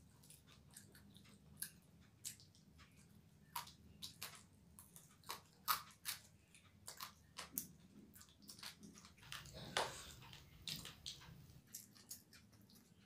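Close-up sounds of someone chewing and eating fish and rice by hand: irregular short mouth clicks, with a slightly longer, louder sound near the two-thirds mark.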